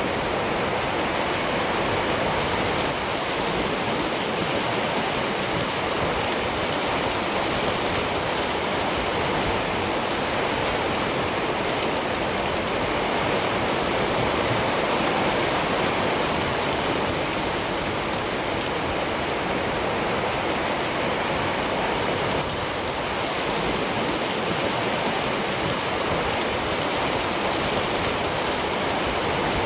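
Steady rain falling, an even hiss that holds level throughout with no thunder.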